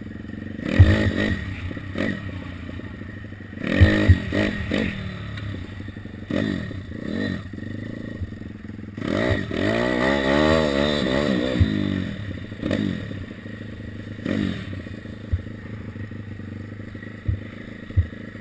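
Beta 150cc four-stroke pit bike engine revving in short bursts, its pitch rising and falling, with a longer wavering run of revs about nine to twelve seconds in. Clattering knocks and thuds come from the bike between the revs.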